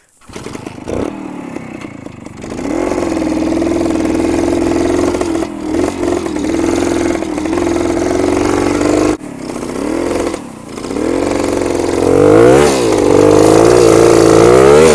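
Kawasaki F11's 250 cc single-cylinder two-stroke engine running under way on a trail ride. It is quieter for the first couple of seconds, then pulls steadily and loud, with the throttle briefly closing a few times. Near the end it revs up and down rapidly.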